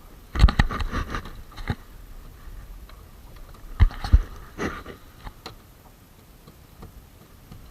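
Knocking and clattering in a small fishing boat: a quick run of knocks about half a second in, and a second group of heavier knocks around four seconds in, with a few single clicks after.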